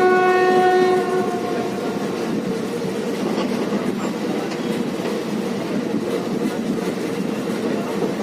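A train horn sounds one held note that cuts off about a second in, leaving the steady rumble and clatter of the moving train on the rails.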